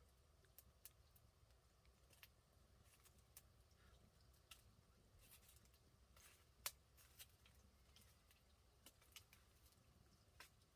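Near silence with scattered faint clicks and ticks, and one sharper click about two-thirds of the way through.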